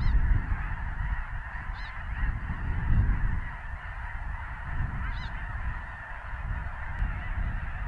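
A distant mass of snow geese calling: a dense, steady chorus of honking from a flock of a couple hundred thousand feeding birds, with a low rumble underneath.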